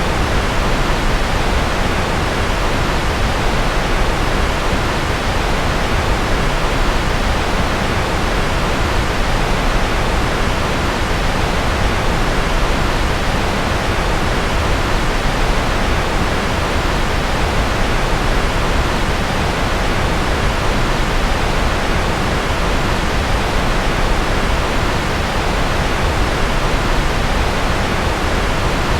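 Steady rushing noise of a sleep white-noise track, even and unchanging, with no tones, clicks or swells. It is heavier in the lows than pure hiss, like pink noise.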